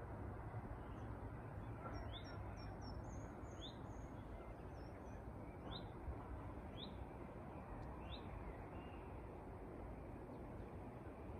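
Songbirds chirping: short falling notes repeated every second or two, with a few higher twitters between about two and four seconds in, over a steady low background rumble.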